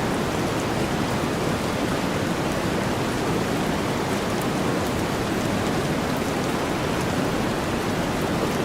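Steady rain blended with a deep, even white-noise hiss, with faint scattered raindrop ticks on top.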